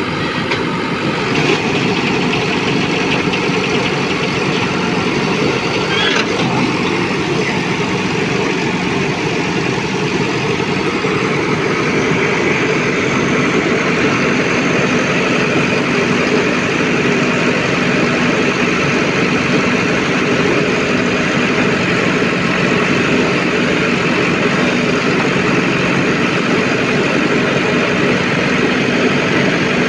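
Heavy diesel engines running steadily: a JCB 3DX backhoe loader working alongside tractors, with the engine note holding at an even pitch throughout.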